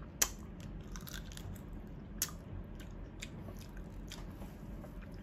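A person chewing and biting raw blue crab, quiet mouth sounds with scattered small clicks and two sharper ones, about a quarter second in and just after two seconds.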